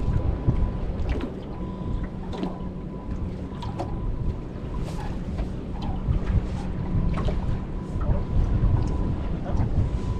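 Wind buffeting the microphone in gusts, with scattered light taps of rain and a faint steady high whine underneath.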